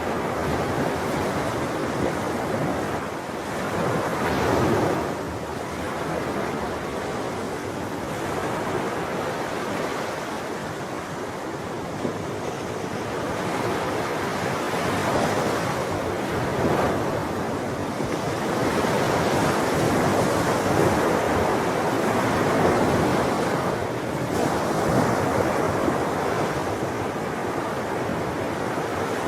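Ocean waves breaking and washing on a shore in continuous surf, swelling and easing every several seconds, with some wind noise.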